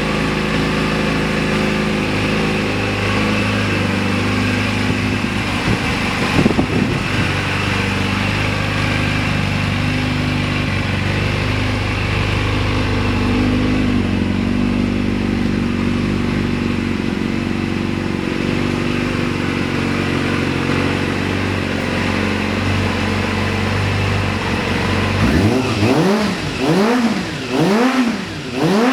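Kawasaki ZRX400's inline-four engine idling steadily through an aftermarket custom exhaust, with one short throttle blip about six seconds in. Near the end the throttle is blipped repeatedly, the revs rising and falling about once a second.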